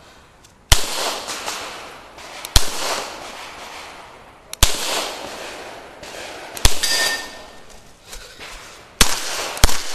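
Six 9mm pistol shots from a CZ Shadow 2, each with a short echo. The first five come about two seconds apart, and the last two fall about half a second apart. A brief ringing tone follows the fourth shot.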